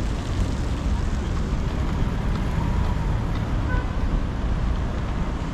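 Wind buffeting the microphone: a steady low rumble, with faint street noise beneath.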